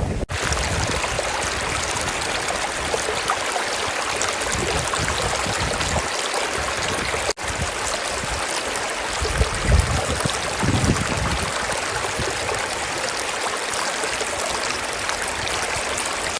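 River water rushing steadily, an even wash of noise, with two momentary dropouts near the start and about halfway through.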